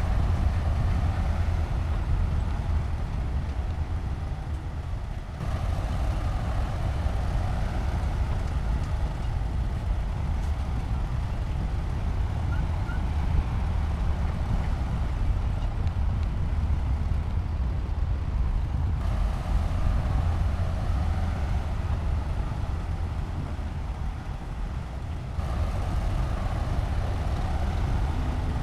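Heavy diesel engine of a SHANTUI crawler bulldozer running with a deep, steady rumble. The sound shifts abruptly three times.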